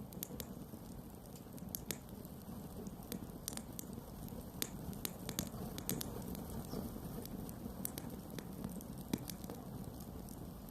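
Campfire burning, with a steady low rush of flames and irregular sharp crackles and pops from the burning wood.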